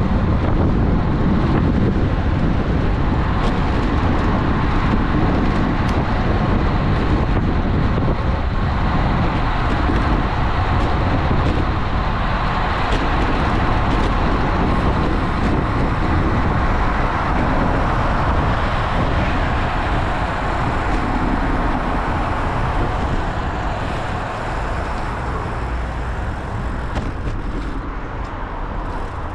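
Steady rush of riding noise from a road bike: wind buffeting the action camera's microphone mixed with tyre and road noise in traffic. The noise eases off near the end.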